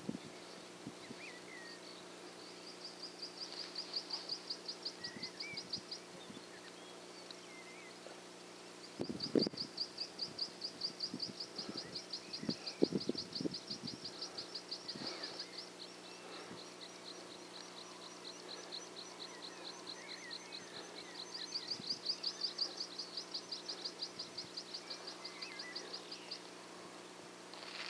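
High, fast-pulsing reeling trills of a small bird, in long runs of several seconds with short breaks between. A few low rustles and thumps come about a third of the way in, over a faint steady hum.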